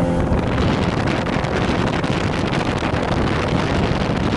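Wind buffeting the microphone aboard a boat at sea: a steady, loud rushing noise with no breaks.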